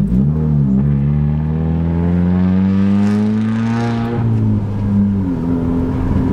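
Car engine and exhaust heard from inside the cabin under hard acceleration, the pitch climbing steadily for about three seconds, then dropping sharply at a gear change about four seconds in and dipping again near five seconds before holding steady: a manual-transmission car being run up through the gears.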